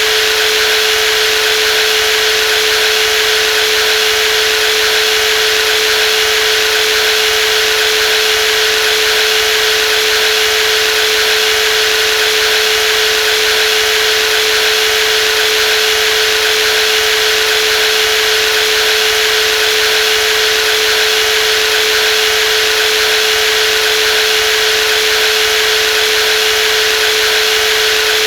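Brushless jigsaw running steadily at constant speed, a continuous even whine with no change in pitch or loudness.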